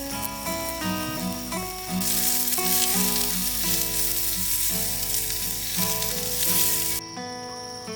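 Beef steak sizzling in a skillet over a campfire, louder from about two seconds in and cutting off suddenly near the end, with background music playing.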